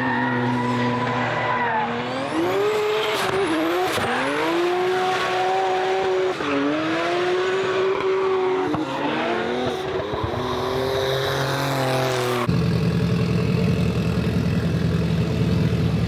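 Drift car engine revving up and down again and again through a drift run, with tyre squeal. About twelve seconds in it cuts abruptly to a steady low engine drone.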